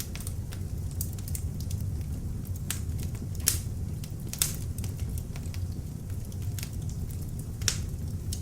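Beech logs burning in an open fireplace: a steady low rumble of flame with scattered crackles and sharp pops of the wood, the loudest pops about three and a half seconds in, a second later, and near the end.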